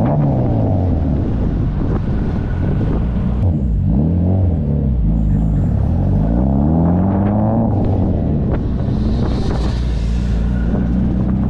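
Car engine pulling through the gears: its pitch climbs and drops back several times over a steady low rumble.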